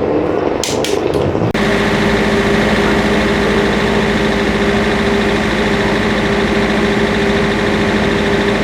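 An engine running at a steady idle with no revving, after an abrupt cut about one and a half seconds in.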